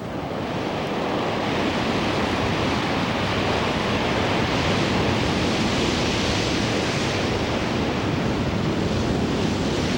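Steady rushing noise of wind and sea surf, swelling over the first couple of seconds and then holding even.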